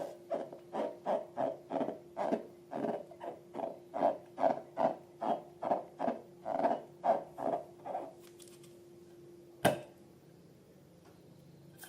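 Slime squelching in an even rhythm, about three squelches a second, which stops about eight seconds in. A single sharp click comes near the end, over a steady low hum.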